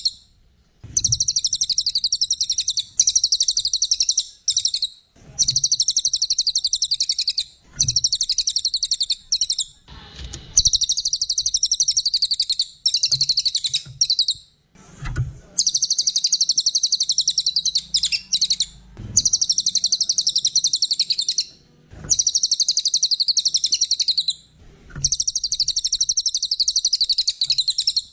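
A small songbird singing in long bursts of very rapid, high-pitched trilled chattering, about eight bursts of two to four seconds each with short pauses between them.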